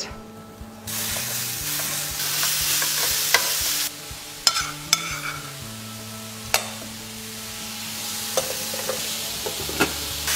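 Beef mince and onion sizzling in a frying pan, loud for the first few seconds, then softer, building again near the end. A few sharp clicks of utensils against the pan break through the sizzle.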